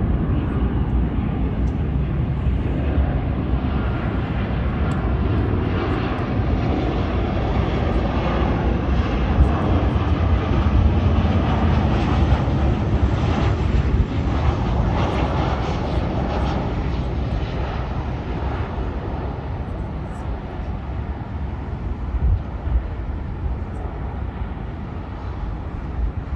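Jet airliner's engines passing: a continuous deep rumble with a rushing hiss above it, strongest in the middle and easing off toward the end.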